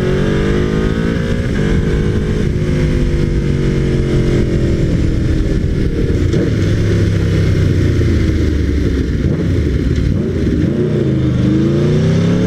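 Aprilia RSV4R's V4 engine through a GPR Thunder Slash exhaust, a deep tone, pulling up through the revs, then shifting up and easing off. It runs at low revs for several seconds and picks up again near the end. Wind noise rushes over it.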